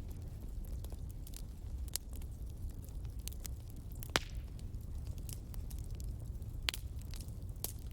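Wood fire crackling: irregular sharp pops and snaps over a low, steady rumble, with one louder pop about four seconds in.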